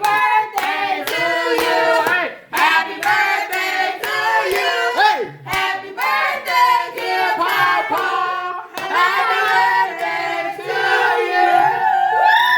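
A group of voices, children among them, singing a song together while hands clap along to the beat.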